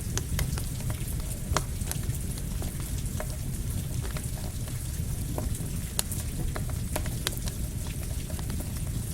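Campfire crackling, with sharp pops at irregular intervals over a steady hiss of rain and a low rumble.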